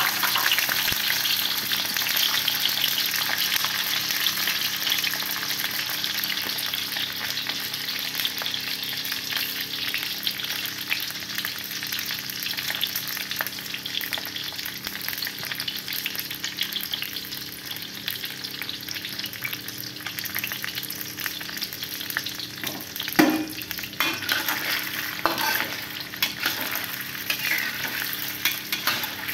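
Pre-cooked chicken meatballs frying briefly in hot oil in a wok: a steady, dense sizzle that eases slightly as it goes. Late on, a metal spatula knocks and scrapes against the wok several times as the meatballs are stirred, the first knock the loudest sound.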